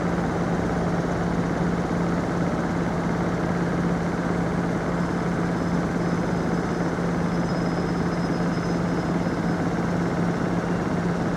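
A train's engine or traction equipment running steadily with a constant low hum and a dense rumble, with no rise or fall in level.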